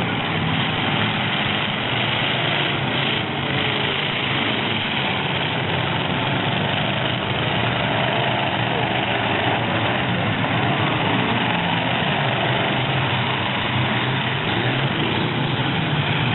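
Full-size demolition derby trucks' engines running together, a dense steady mix of idling with occasional revs rising and falling in pitch.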